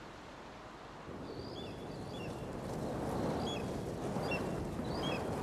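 A bird's short high chirps, repeated every half second or so, over a rush of wind-like noise that builds about a second in and swells near the middle.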